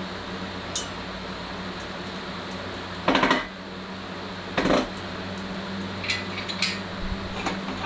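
Metal clinking and rattling as steel tools and engine parts are handled: a few sharp clinks, with two louder clattering rattles about three and four and a half seconds in, over a steady low hum.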